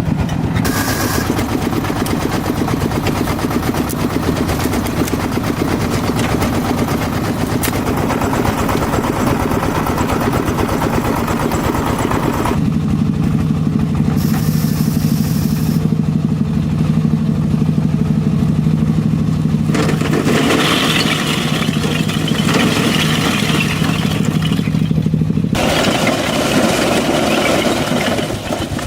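An engine running steadily, its hum changing abruptly a few times.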